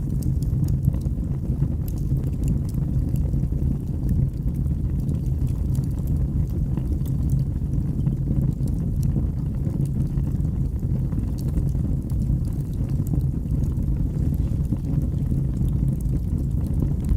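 Birch logs burning in a fireplace: a steady low rush of the fire with frequent small, irregular crackles and pops.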